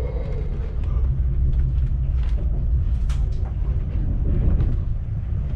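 Steady low rumble of an ÖBB Railjet train running, with a few short clicks and rattles.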